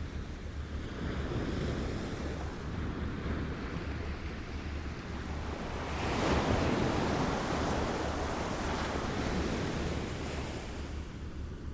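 Small waves lapping against a shore, a steady wash that swells into a louder wave about six seconds in and eases off near the end.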